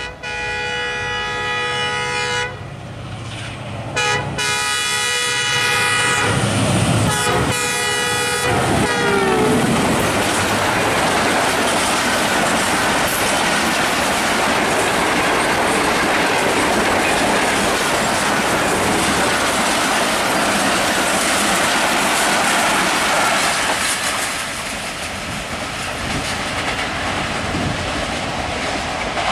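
Diesel locomotive's multi-note air horn blowing as an express train approaches at speed: two long blasts and then shorter ones, the last dropping in pitch as the locomotive passes. Then the passenger coaches rush by with wheels clattering over the rail joints, the noise easing off near the end as the train draws away.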